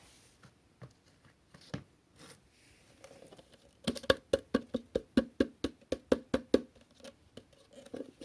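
Parts of a GeeMo E4 cordless stick vacuum being handled: a few scattered small clicks and rustles, then about a dozen quick, sharp knocks, about four a second, lasting a little under three seconds.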